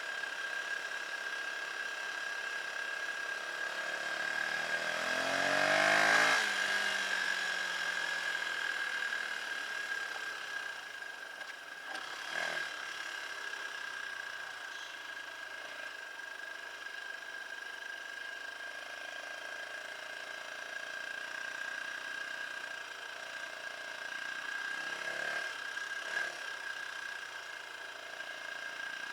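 Dirt bike engine running, rising in pitch and loudness to a peak about six seconds in, then falling away. Shorter swells follow about twelve and twenty-five seconds in, over a steady high whine.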